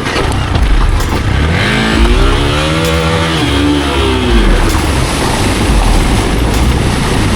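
Hero Xpulse single-cylinder motorcycle engine running under a heavy low rumble. About a second and a half in, its pitch rises and then falls away again over some three seconds.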